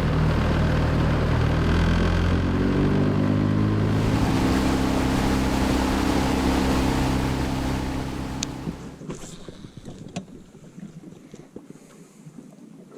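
Boat motor running under way, its pitch rising as it speeds up over the first few seconds and then holding steady. About eight seconds in it fades away, leaving a much quieter background with a few light clicks.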